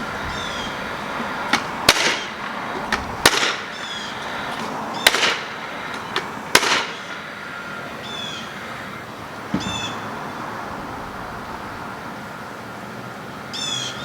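Sharp knocks or bangs at irregular intervals, about eight in the first ten seconds, with short high chirps falling in pitch repeating between them and a faint steady hum underneath.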